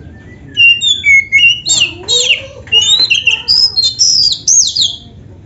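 Oriental magpie-robin (kacer) singing a loud, varied phrase of short whistled notes and quick up-and-down slurs, ending in a few fast downslurs.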